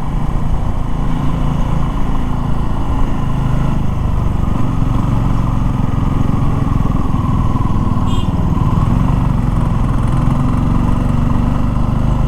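Motorcycle engine running steadily under way, its pitch rising and falling with the throttle. A short high beep sounds about eight seconds in.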